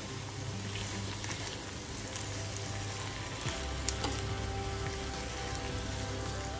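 Button mushrooms with onion and garlic sizzling steadily in butter in a frying pan, stirred with a spatula, with a few light knocks of the spatula against the pan a little past the middle.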